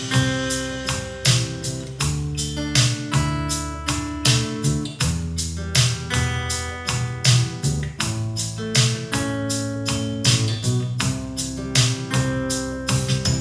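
Instrumental music with plucked guitar-like notes and a steady beat, played through Yamaha NX-E400 speakers driven by a Yamaha RX-V767 receiver and picked up by a phone microphone.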